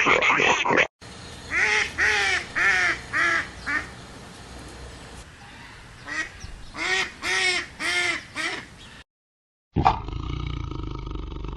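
An animal giving a string of short, repeated calls, about five in quick succession, a pause, then about five more. Near the end a different animal sound cuts in suddenly and carries on steadily.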